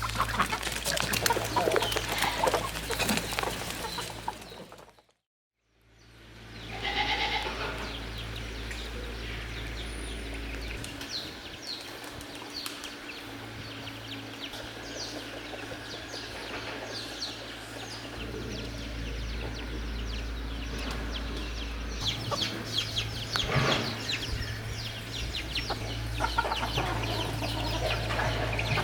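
Chickens clucking among other farmyard animal sounds. The sound drops out completely for about a second around five seconds in, then returns.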